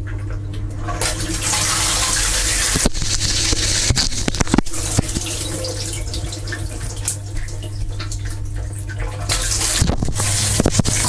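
Dishwasher running, heard from inside the tub: water spraying and splashing over the racks with many small spatters, over the steady hum of the wash pump motor. The spray starts about a second in.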